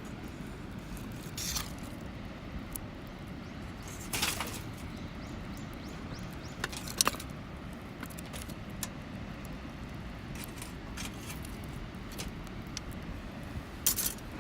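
Wood fire crackling with scattered sharp pops and snaps, a few louder ones about halfway through and near the end, over a steady low rumble.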